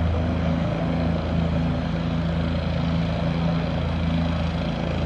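Air-ambulance helicopter running steadily, a low even hum.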